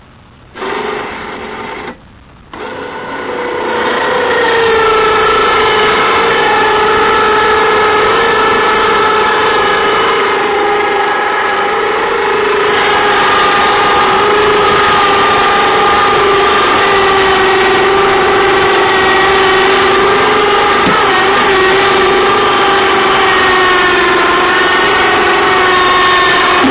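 Harbor Freight 2,000 lb electric winch motor pulling a Polaris RZR 800 up a hill in neutral. It gives a short run and a brief stop, then a steady whine under load whose pitch slowly falls.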